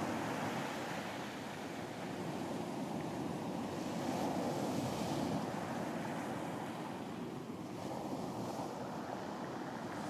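Ocean surf washing onto a beach, a steady rushing wash that gently rises and eases, with wind.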